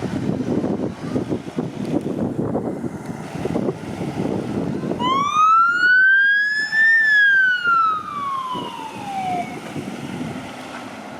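A fire truck siren sounds one wail about halfway in, its pitch rising for about two seconds and then falling away for about two and a half, over a steady rumble.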